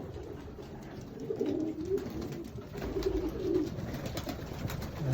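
Racing pigeons cooing in a loft: several low, warbling coos in a row through the middle, with a few faint knocks and scuffles.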